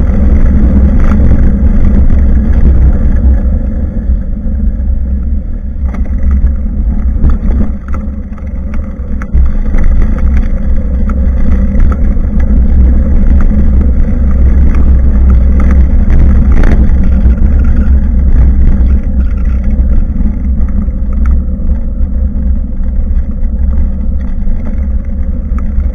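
Loud wind rumble buffeting a bicycle-mounted action camera's microphone while riding, over tyre and road noise, with a few short knocks from bumps.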